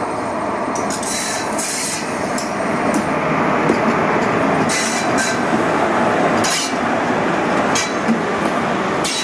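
Passenger train rolling past on the track: a steady rumble of wheels on rails, broken by scattered sharp metallic clanks.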